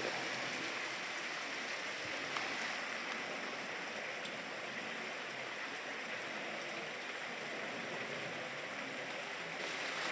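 Miniature waterfall: a steady rush and splash of falling water.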